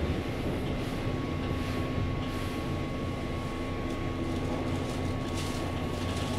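Keihan 8000-series train running at steady speed, heard inside the car in the underground section: an even rumble of wheels and running gear with a thin, steady whine above it.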